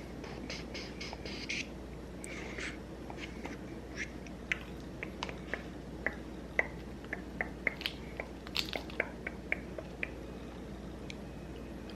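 A run of light, irregular clicks and taps, few at first and coming thick and fast in the second half, over a faint steady background.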